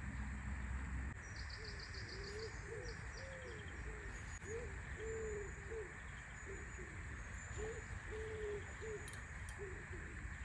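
A bird cooing: a run of short, low hooting notes, about two or three a second, starting about a second in.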